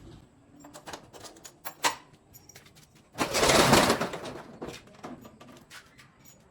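Garage door being unlocked and opened: metallic clicks and clinks, then a loud rattling burst lasting about a second, starting about three seconds in, followed by a few lighter clicks.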